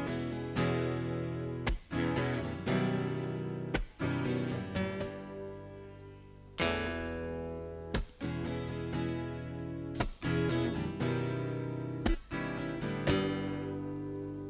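Acoustic guitar strumming slow chords in a song's instrumental introduction. Each chord is struck and left to ring out; one fades for a couple of seconds before the next.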